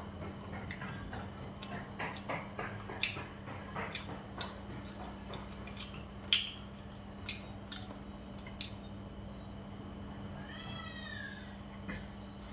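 Chewing and mouth clicks from eating grilled skewered meat, with scattered sharp ticks. About ten seconds in, a cat meows once, a single call that rises and falls.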